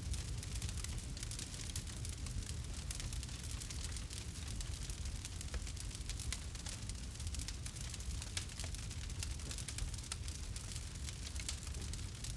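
Campfire crackling: many small, irregular snaps and pops over a steady low rumble.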